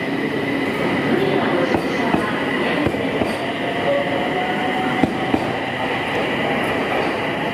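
Sendai Airport Transit SAT721 series electric train pulling out of the station and running past, its wheels on the rails making a steady, loud rumble, with a couple of sharp clicks over rail joints about five seconds in.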